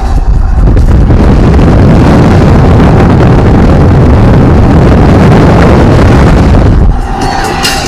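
Loud wind buffeting the microphone over a low rumble, cutting off suddenly about seven seconds in.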